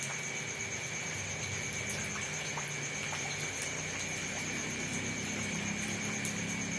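Rain falling steadily, with scattered drops ticking now and then, over two constant high-pitched tones and a low drone.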